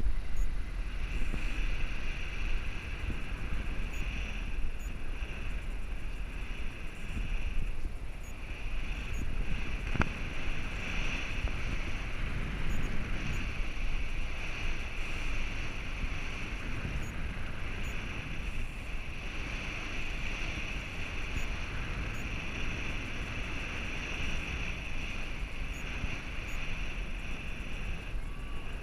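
Steady wind rumbling on the microphone, with a continuous higher hiss over it.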